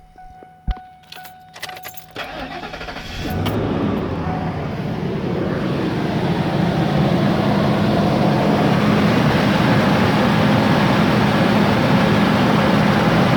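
Keys jangle and a repeating chime sounds, then a 1997 Ford Expedition's V8 cranks and starts about three seconds in. It runs on cold with a loud rough grinding noise that grows over the next few seconds. The source of the grinding is not yet known.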